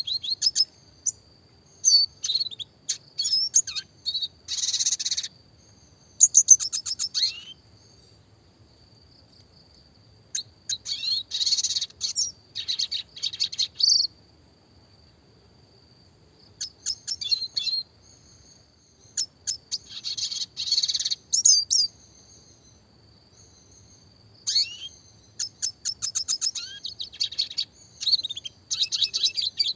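Red siskin singing in bursts of a few seconds: rapid twittering trills and quick sweeping high notes, separated by short pauses. A faint, steady, thin high tone runs underneath.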